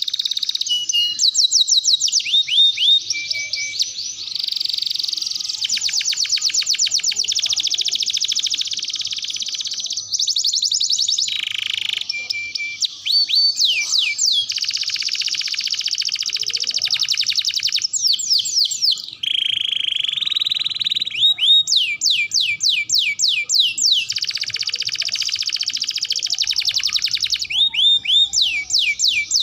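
Domestic canary singing a long, unbroken song of fast trills, rapid rolls and repeated falling whistled notes, switching phrase every second or two.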